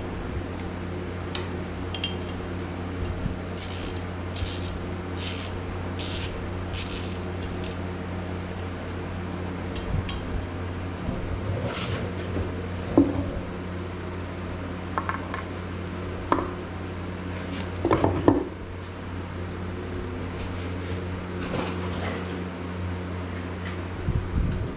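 Hand tools clinking and tapping on metal while working a pulley loose from a lawn tractor engine's output shaft, a run of quick taps at first and then a few louder single clanks, over a steady low hum.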